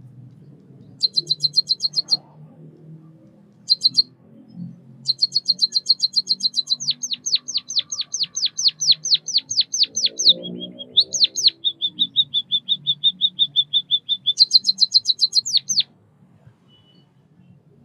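White-headed munia singing in bursts of rapid high chirps. Mid-song it gives a long run of quickly repeated falling notes, then a steady trill and a final quick run that stops sharply a couple of seconds before the end.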